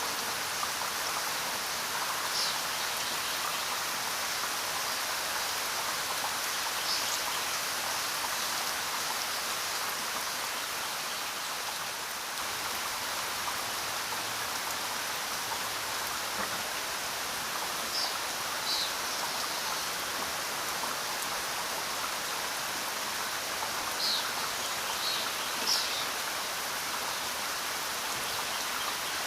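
Steady rain falling in an even hiss, with a few brief high chirps here and there.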